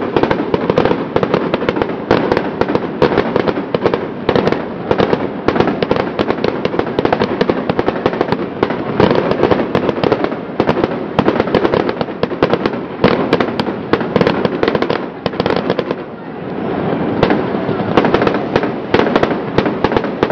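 Fireworks display: a dense, continuous barrage of bangs and crackling. It eases briefly about 16 seconds in, then builds again.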